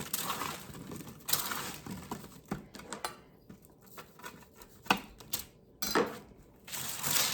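Vegetables being tossed and rubbed with seasoning on a foil- and parchment-lined pan: irregular rustling and crinkling with a few sharp clicks and clatters.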